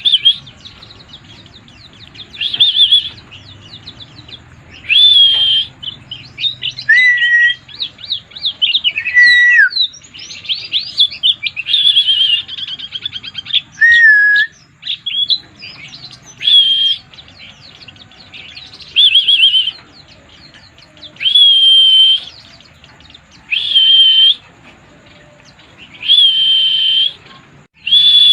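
Pleci (white-eye) singing in the excited, nonstop state bird-keepers call 'mabuk': bursts of high twittering song about a second long, repeating every two to three seconds. The first half has a busier stretch of rapid trills and a few falling whistles.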